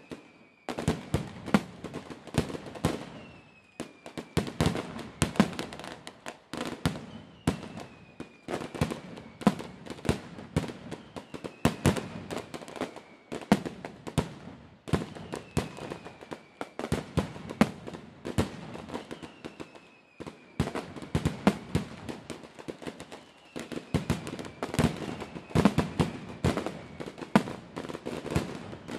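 Fireworks display: dense runs of sharp bangs and crackling bursts, with short lulls between volleys. A thin whistle falling in pitch comes back every two to three seconds.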